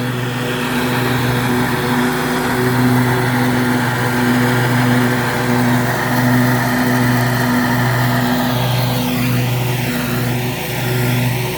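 Scag Liberty Z zero-turn mower's Kawasaki V-twin engine running steadily while mowing, its note pulsing slightly, with a brief dip and rise in pitch about nine seconds in.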